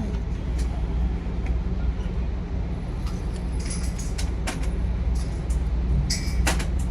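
Shooting range background: a steady low rumble with scattered sharp clicks and cracks, the brightest about six and a half seconds in.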